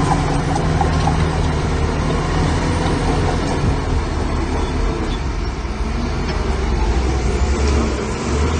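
Heavy construction machine's diesel engine running steadily with a low rumble.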